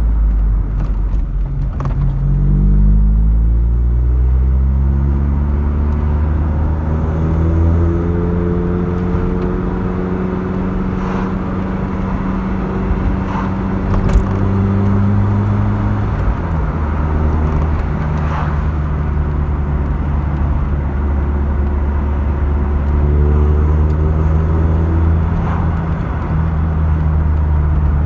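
Mk2 Vauxhall Cavalier's 2.0-litre four-cylinder engine (SEH 130 spec) heard from inside the car while driving. It revs up, shifts up a gear about two seconds in and pulls again, then holds a steady cruise. It eases off around the middle and picks up again near the end.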